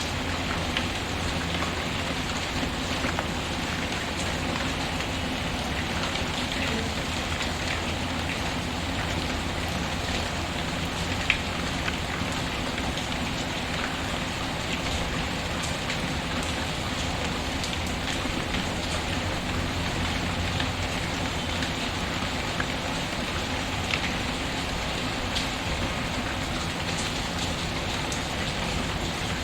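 Steady rain pattering, mixed with the scattered crackles and pops of a fireplace; one louder crack about eleven seconds in.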